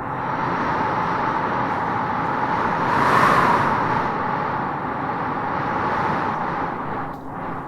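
Wind howling and gusting through trees in an even rush of noise, swelling in a gust about three seconds in and easing briefly near the end.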